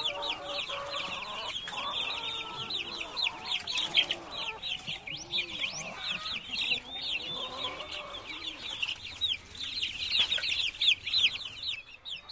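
Chickens clucking in low, curved notes, over a dense, continuous chatter of quick, high, falling bird chirps.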